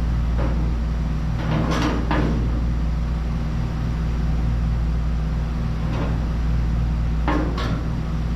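Sheet-metal front-end parts being handled and fitted, giving a few short knocks and clatters about two seconds in and a few more near the end, over a steady low hum.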